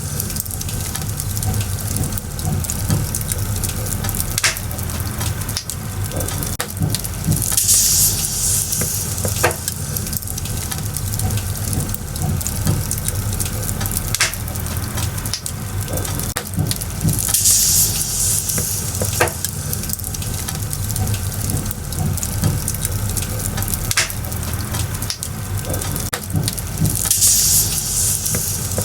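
Firewood burning in a bonfire, crackling steadily with scattered sharp pops over a low rumble of flame. A louder hiss flares up about every ten seconds.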